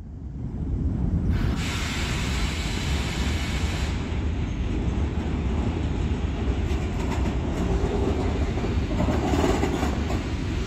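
DB E483 electric locomotive hauling a freight train through a station: a steady low rumble of the locomotive and wagons rolling on the rails, which builds over the first second or two as the train draws near.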